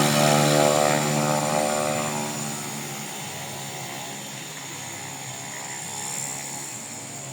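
Cessna 208 Grand Caravan's single turboprop engine and propeller at takeoff power: a dense propeller hum that fades over the first two or three seconds as the aircraft moves away, leaving a fainter steady drone.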